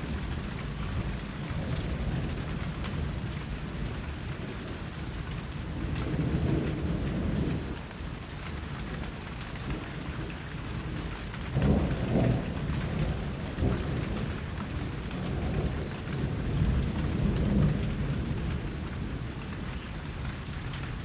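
Steady rain falling, with low rolls of distant thunder rising and fading in several slow swells; the loudest comes about twelve seconds in.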